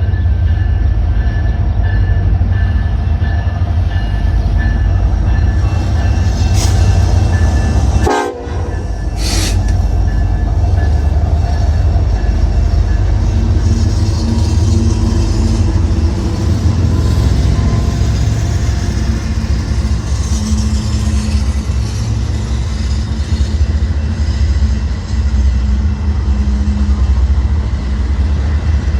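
Union Pacific Z intermodal freight train passing: a loud, steady low rumble of locomotives and rolling cars. Thin, high steady tones ring over about the first eight seconds.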